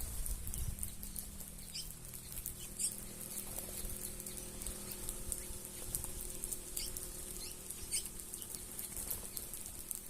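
A flock of birds feeding on scattered cracked corn on the ground: short high chirps and calls scattered throughout over a dense patter of small ticks, with some wing flapping.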